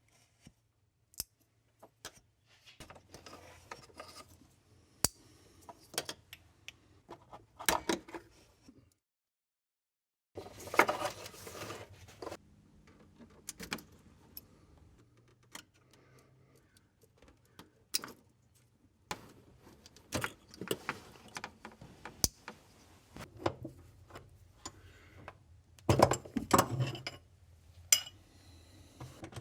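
Irregular metallic clicks, clinks and rattles of hand tools and engine-bay parts being handled as hoses, lines and cables are disconnected from an engine, with louder clattering about a third of the way in and again near the end.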